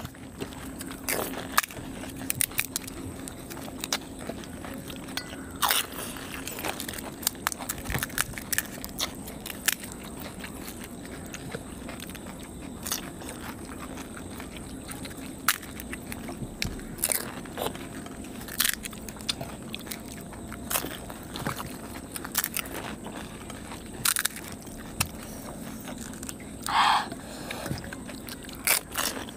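Crisp pani puri shells crunching as they are bitten and chewed quickly, in irregular, scattered crunches and clicks over a faint steady hum.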